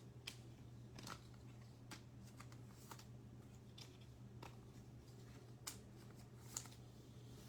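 Faint flicks and taps of trading cards being handled and sorted, about nine scattered clicks over a low steady hum.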